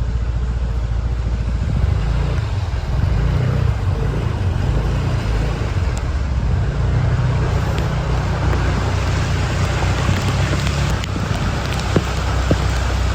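A vehicle engine runs steadily under the hiss of heavy rain. The rain grows louder in the second half.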